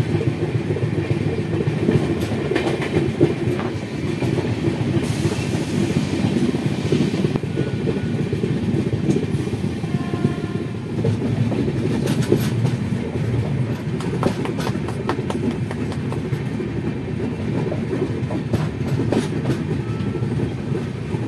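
Amrapali Express passenger train running at speed, heard from inside a moving coach: a steady rumble of wheels on the track with scattered clicks over the rail joints.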